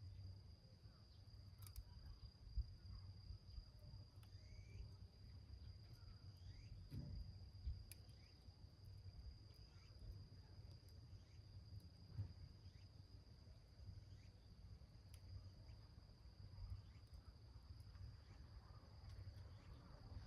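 A steady high-pitched insect trill runs on without a break, over a low rumble. A small wood fire burning in a tin can gives faint, scattered crackles and pops.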